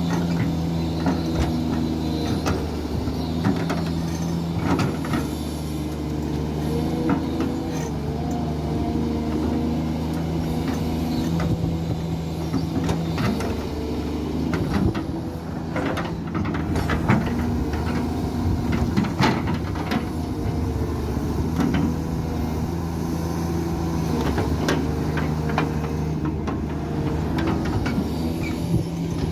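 Kobelco SK200 hydraulic excavator's diesel engine running under working load, its pitch stepping up and down as it digs and swings, with scattered knocks and clatter, most of them near the middle.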